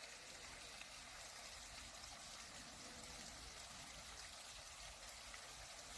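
Near silence: a faint, steady hiss with nothing else standing out.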